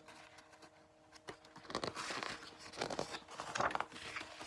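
Paper rustling and crinkling as the pages of a picture book are handled and turned, in several bursts through the second half.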